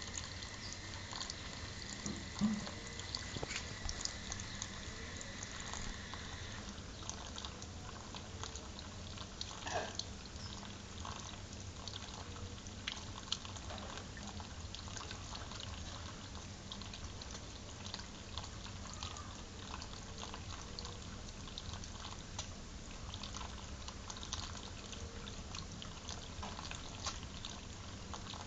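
Water spraying and splashing steadily for a parrot's shower, with many small drips and patters. A steady high whine sounds over it and stops about six seconds in.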